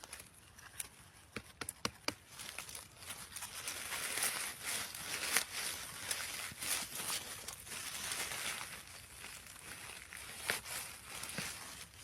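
Dry leaf litter and twigs on the forest floor rustling and crackling, with a quick run of sharp snaps about one to two seconds in, then steady scuffing and crunching.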